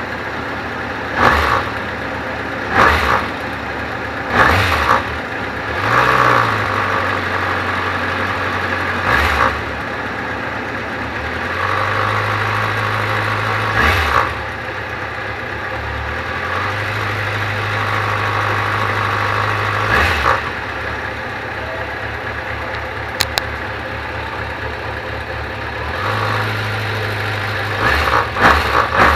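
Kawasaki ZZR400 motorcycle's inline-four engine idling, blipped on the throttle in short revs every few seconds, with a quick run of blips near the end.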